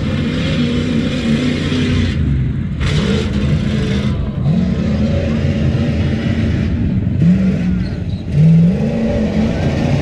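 Off-road Tuff Truck engine revving hard, its pitch climbing and dropping again and again as the throttle is worked through the course.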